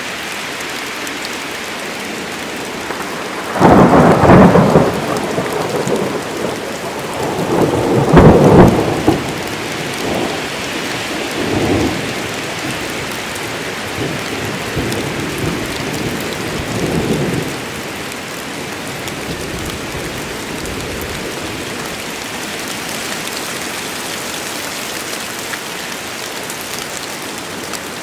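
Steady rain falling, with a thunderclap breaking suddenly a few seconds in. It swells again to a second peak, then rolls away in a few smaller rumbles while the rain continues.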